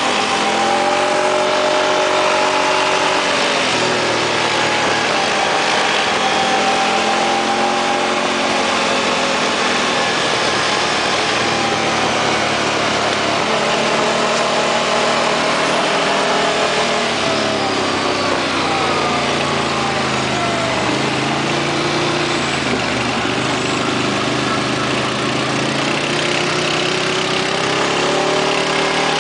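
A motor vehicle's engine running continuously, its pitch slowly rising and falling as the revs change.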